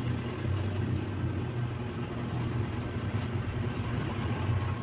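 A steady low hum over a faint background hiss, with a few faint soft ticks.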